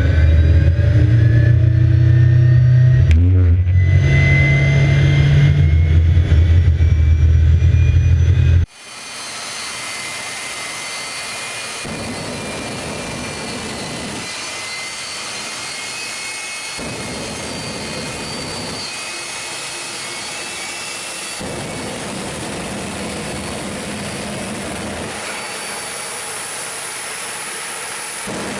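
Jet dragster's turbine engine running, a steady rush with a thin high whine. A loud low hum cuts off suddenly about nine seconds in, leaving a quieter, even rushing sound.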